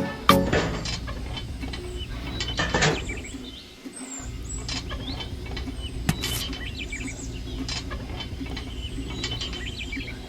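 A small geared motor running with a steady low hum and clicking, rattling gears. It cuts out briefly about four seconds in, then runs again.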